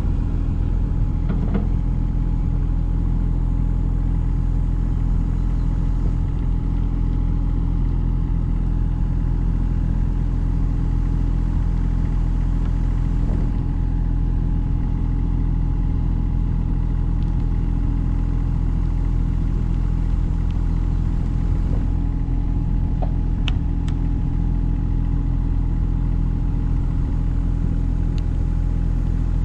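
Backhoe engine running steadily as the machine pushes a fence post into the ground, used in place of a post pounder. A few faint knocks sound over the steady engine.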